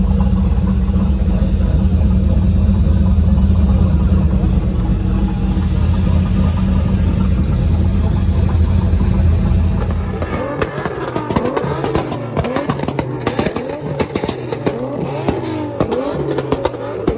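A car engine running steadily with a deep, loud rumble. About ten seconds in the rumble drops away and a busier sound with wavering, swooping pitches and sharp ticks takes over.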